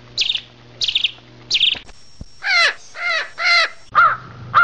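Birds calling: a small bird's short high chirps, repeated a little under twice a second, then from about halfway a run of harsh cawing calls, about two a second.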